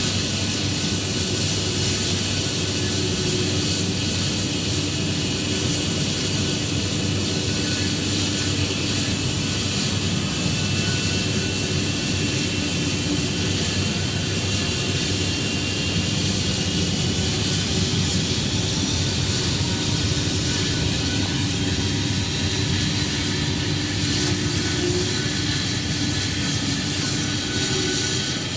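An airliner's engines running steadily at an airport, a constant rumble with a high whine that rises slightly about halfway through.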